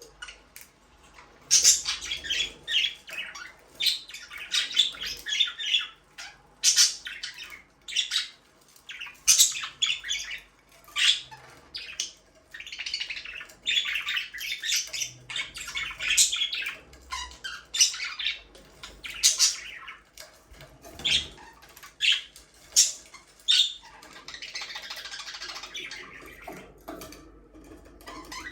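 Budgerigars chirping and squawking: many short, sharp, high calls in quick succession, with a softer warbling stretch near the end.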